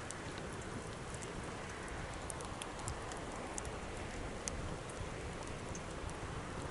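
Campfire burning, a steady hiss broken by irregular sharp crackles and pops of the wood.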